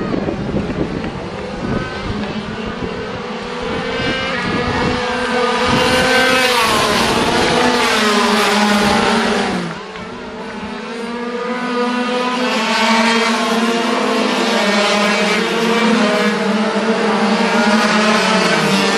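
A group of 50cc two-stroke racing motorcycles running at high revs past the track, several engines heard at once. The sound swells to a peak a few seconds in and falls in pitch as they go by, dips near the middle, then builds again as more bikes come through.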